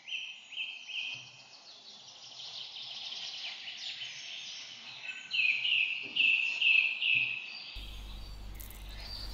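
Forest birdsong: a bird repeats short rising whistled notes in two runs of about four, over fainter chattering of other birds. A low steady hum comes in near the end.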